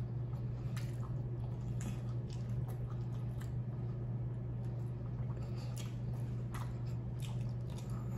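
Close-up chewing and gnawing of saucy barbecue ribs eaten by hand, with scattered small wet clicks and lip smacks, over a steady low hum.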